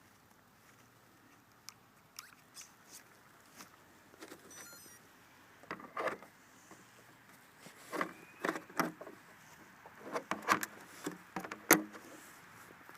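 Irregular crunching in snow: a string of short crunches, sparse at first, then louder and closer together from about six seconds in.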